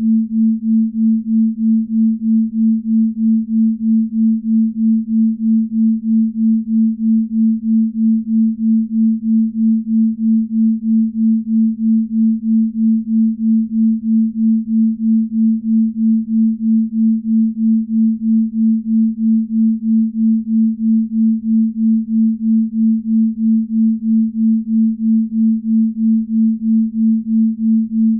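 Binaural-beat tone for deep sleep: a single low, steady pure tone that swells and fades evenly about three times a second.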